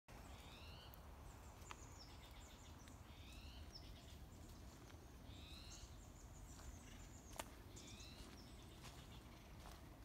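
Faint bird calls: a short rising call repeated about every two to three seconds. Two or three sharp snaps, the loudest a little past the middle.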